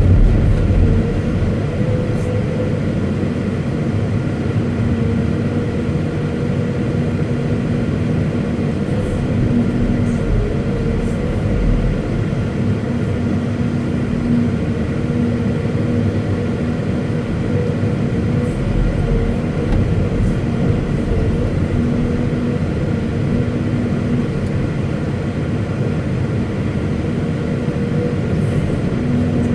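Caterpillar 329E hydraulic excavator's diesel engine running steadily, a constant low rumble with a steady whine over it.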